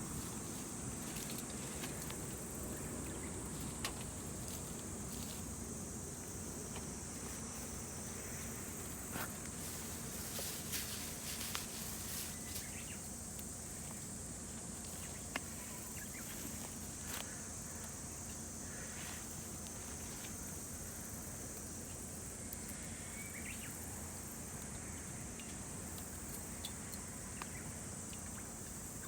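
Insects chirring steadily in a high, even band, with occasional faint sharp clicks scattered through.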